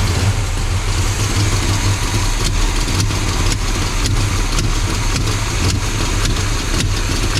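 1984 Chevy C20 truck engine running steadily at idle, just fired up after years in storage, with faint regular ticking over the low engine note. It sounds like an exhaust leak.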